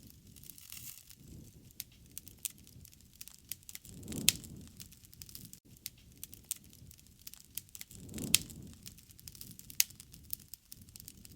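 Wood fire crackling, with scattered sharp pops. The two loudest pops come about 4 and 8 seconds in, each over a brief low rush.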